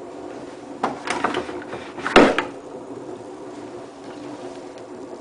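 Hotpoint WT960 washing machine tumbling its drum on the handwash-wool programme, with a steady hum throughout. A run of clattering knocks comes about one to two and a half seconds in, the loudest just after two seconds.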